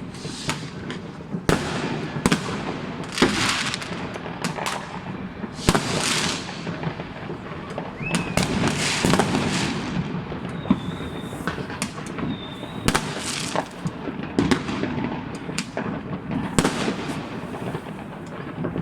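Many fireworks going off at once: continuous crackling with frequent sharp bangs of varying loudness, and a few brief high whistles.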